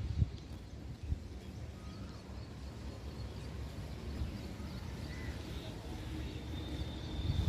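Outdoor background noise: a steady low rumble with faint, scattered high chirping, and a couple of soft knocks in the first second or so.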